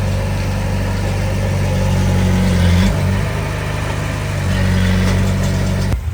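Heavy earthmoving machine's diesel engine working, revving up twice, near three seconds and again near five seconds, and settling back between. The sound changes abruptly just before the end.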